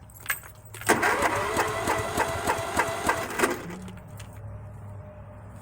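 Tractor engine cranked over by its starter for about two and a half seconds in an even, rhythmic pulsing, then the cranking stops.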